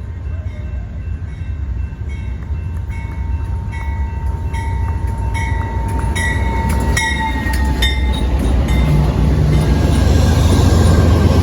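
Passenger train running with a steady low rumble that grows louder, its wheels clicking over rail joints at a quickening pace as it picks up speed.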